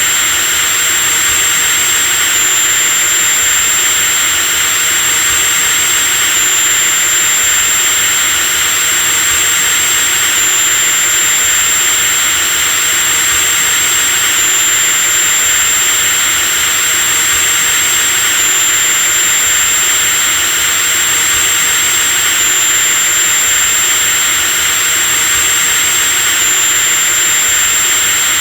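Electric drill running continuously at full speed: a steady high whine over a loud even hiss, with a small hitch in the whine about every four seconds.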